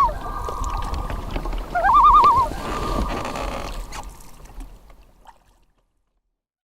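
Two short warbling, wavering calls, one at the start and one about two seconds in, over a steady rushing noise that fades out to silence.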